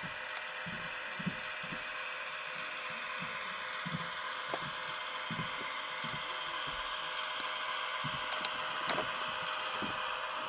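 Model locomotive's Tsunami sound decoder playing the sound of a non-turbocharged EMD 645 diesel engine, running steadily through the model's small speaker, with a few faint clicks near the end.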